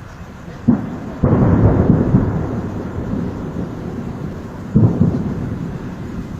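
Thunder: a clap about a second in, a louder one just after it, and another near five seconds in, each rolling off into a long low rumble.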